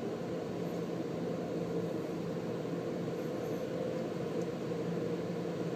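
Steady machine hum with an even hiss and a low drone, unchanging throughout.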